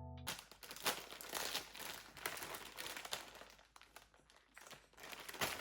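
Irregular crinkling and rustling of something being handled, with scattered small clicks, which fades lower around the middle and picks up again near the end. Background music cuts off just at the start.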